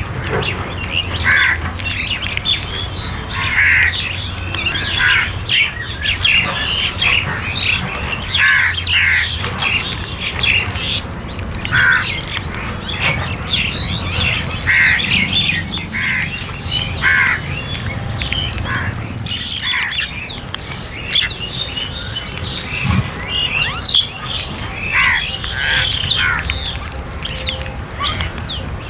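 Several crows cawing over and over, short harsh calls coming every second or two, over a low steady background rumble.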